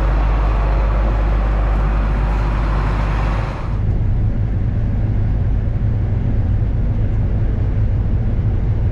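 Combine harvester engine running steadily. About three and a half seconds in, the sound changes abruptly to a duller, deeper hum.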